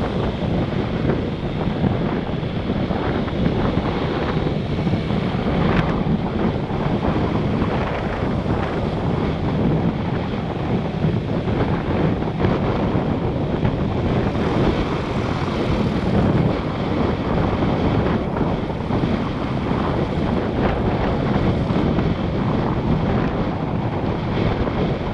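Steady rush of wind buffeting the microphone of a camera riding on a moving motorbike, with the motorbike and surrounding traffic running underneath.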